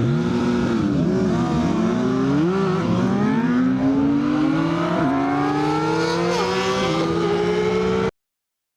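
Yamaha XSR900's inline three-cylinder engine pulling away. The pitch wavers at first, then climbs steadily, dropping briefly at upshifts about five, six and a half and seven seconds in. The sound cuts off abruptly near the end.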